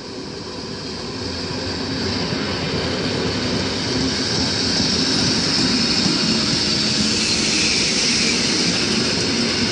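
EN57 electric multiple unit rolling along the platform, its wheels and running gear on the rails giving a steady hiss and rumble that grows louder over the first few seconds as it comes alongside, then holds.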